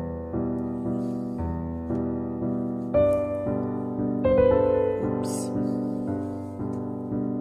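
Background piano music: soft chords struck in a slow, even pulse, each one fading before the next.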